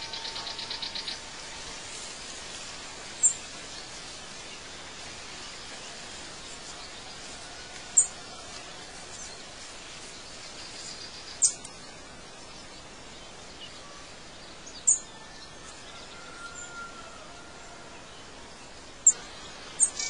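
Birds chirping: short, high chirps every three to four seconds over a steady background hiss, with a brief buzzing trill right at the start.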